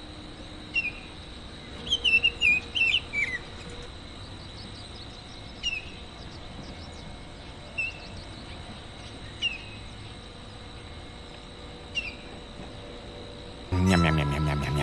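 Juvenile oriole giving short, downward-slurred begging chirps, singly or in quick clusters every second or two, asking its parent to feed it. About a second before the end there is a brief loud voice-like sound.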